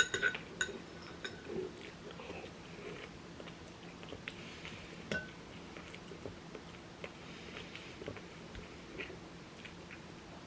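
A person chewing and biting food close to the microphone. A few sharp clinks of a utensil against a dish come in the first second.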